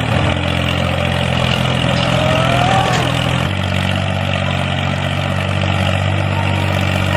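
Motor of a homemade mini tractor running steadily with a low hum, its pitch shifting once about halfway through.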